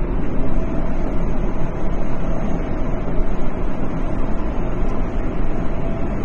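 Tokyo Metro 10000 series train running at speed between stations: a steady low rumble of wheels on rail with a faint steady hum above it.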